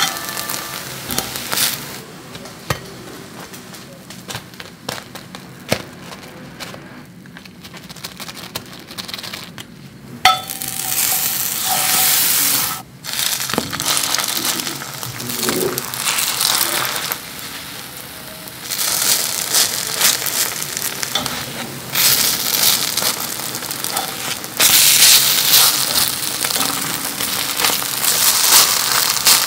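Egg-soaked bread slices frying in butter in a frying pan: a steady sizzle with light fork clicks and scrapes against the pan. The sizzle is quieter at first and jumps loud about ten seconds in, as fresh wet slices go into the hot fat, then swells again near the end.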